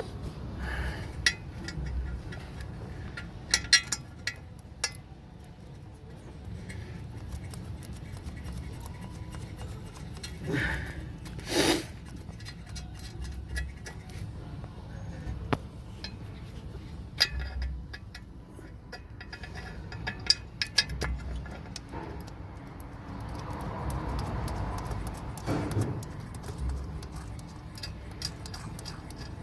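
Scattered metallic clinks and taps of nuts, bolts and hand tools being handled as an exhaust manifold is bolted back onto a diesel engine, with a few louder knocks, the loudest about twelve seconds in.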